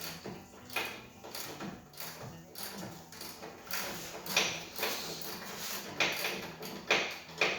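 Irregular clanks and scrapes of metal tools and parts being handled, several a second, over a faint steady hum.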